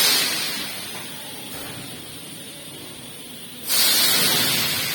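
A metro train's compressed air hissing out in two loud bursts, the first fading about half a second in and the second starting near the end, with quieter hissing between them.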